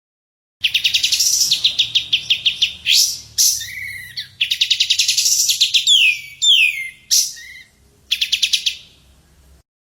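A songbird singing loud, rapid trills of repeated high notes mixed with quick downward-slurred whistles. The phrases break off abruptly into short silences and start again, as in a looped training recording.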